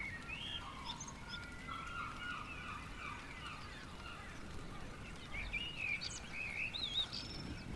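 Birds singing and calling in a dawn chorus: many short chirps, trills and warbles overlapping, busiest near the end. Underneath is a low, steady background rumble.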